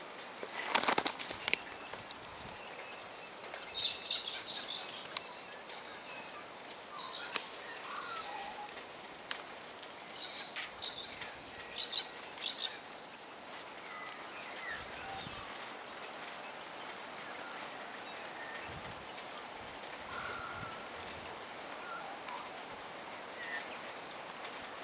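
Small bird giving short, high chirps in scattered bursts, with a quick run of sharp clicks about a second in, over the steady patter of falling wet snow.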